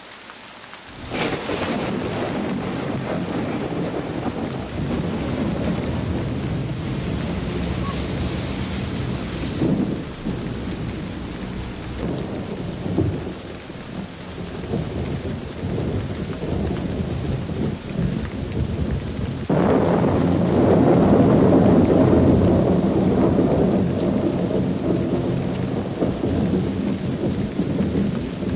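Steady rain with thunder. A thunderclap breaks in about a second in and rumbles on for several seconds. A second, louder roll of thunder starts about two-thirds of the way through and slowly fades.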